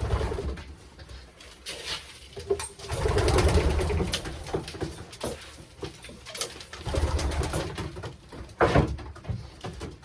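Racing pigeons cooing in a loft in several rolling bouts, with scattered light clicks and a sharp knock near the end.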